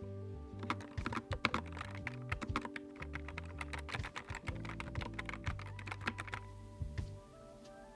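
Fast typing on a Nuphy Air 75 V2 low-profile mechanical keyboard: a quick, uneven run of key clicks that stops about a second and a half before the end. Background music plays throughout.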